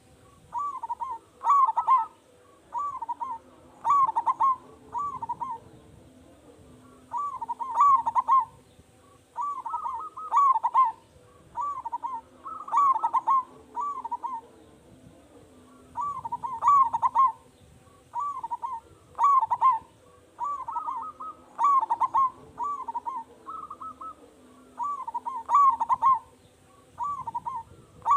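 Zebra dove (perkutut) cooing: short rolling coo phrases repeated one after another, every second or two, with brief pauses between runs.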